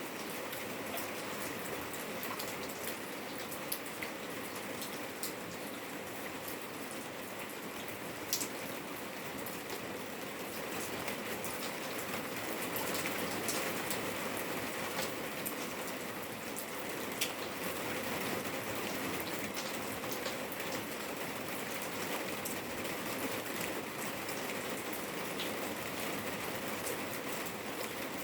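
Steady rain falling in a yard: a constant hiss with many individual drops ticking, and now and then a louder drip standing out.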